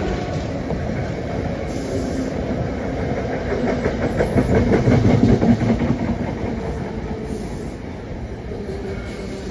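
NJ Transit commuter train of bilevel coaches passing close at speed: steady rumble of steel wheels on rail with rhythmic clicking as the wheels cross rail joints, loudest about four to six seconds in and easing off afterwards.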